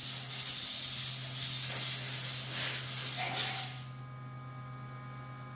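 Steady spray hiss over carburetor parts being cleaned, cutting off abruptly a little over halfway through, with a faint steady hum underneath.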